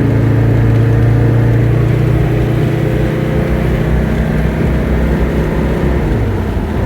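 Mercedes turbo-diesel engine in a 1994 Toyota 4Runner pulling under acceleration on the road. The engine note holds steady and then drops in pitch near the end.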